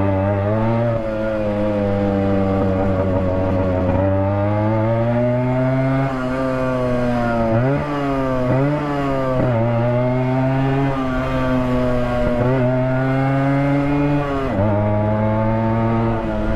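Yamaha RX100 two-stroke single-cylinder engine with the silencer's baffle mesh removed, running loud on the move. Its pitch climbs and falls with the throttle, with a few quick blips in the middle.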